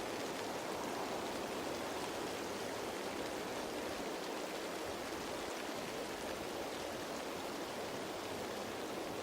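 Steady rain falling on leaves, a dense even patter with faint individual drop ticks.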